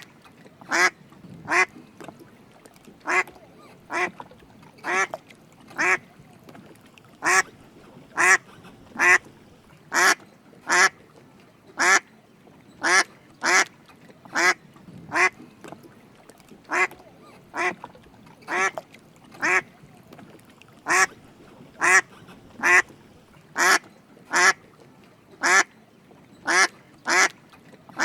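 Mallard duck quacking: short, sharp single quacks repeated about once a second, now and then two in quick succession.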